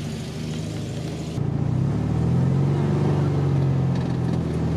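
1968 VW Beetle's air-cooled flat-four engine running as the car drives along. It is faint at first, then loud and boomy from inside the cabin after about a second and a half, its note rising a little as it pulls.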